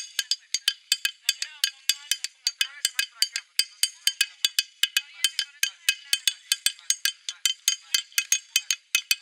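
Fast rhythmic tapping of a hard object, about five to six sharp, bright, ringing clicks a second, played as a percussion rhythm.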